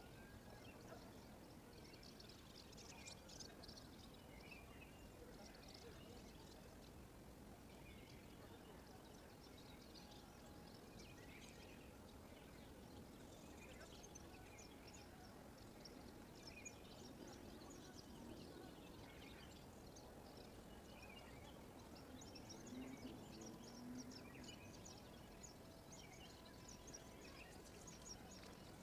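Faint birds chirping here and there over a low, steady background hiss.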